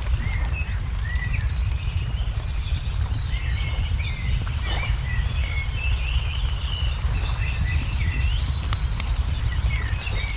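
Layered fireside nature ambience: small birds chirping and twittering over a wood fire crackling with scattered sharp pops. A steady low rumble runs underneath.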